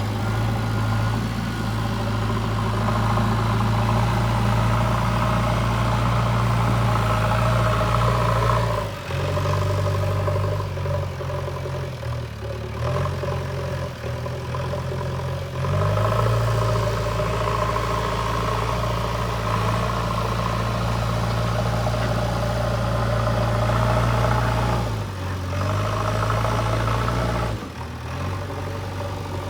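JCB 3DX backhoe loader's diesel engine running while dozing earth, its note easing off about nine seconds in, building back up around sixteen seconds, and easing off again near the end.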